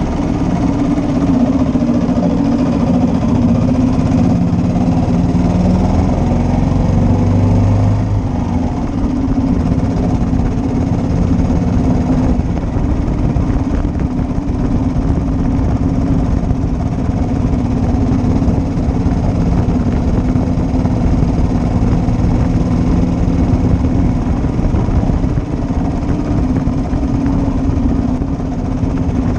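1941 Matchless G3L motorcycle's single-cylinder four-stroke engine running steadily.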